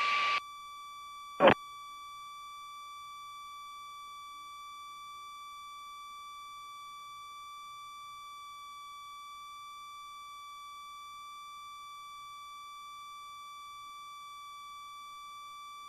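A steady, unbroken electronic tone of a single pitch with overtones, heard through an aircraft intercom audio feed, with one short click about a second and a half in.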